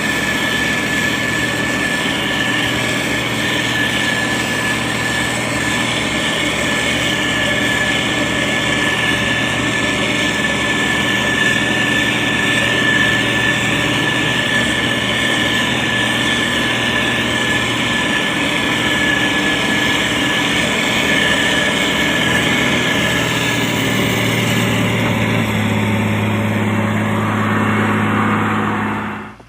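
Diesel engine of a SANY STG190C-8S motor grader running steadily, with a constant high whine over it. Near the end the whine fades and a lower, even engine note takes over, then the sound cuts off suddenly.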